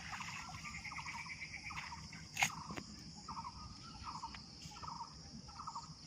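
Insects chirping: a steady high shrill drone with short pulsed chirps repeating about once a second. A single sharp click about two and a half seconds in.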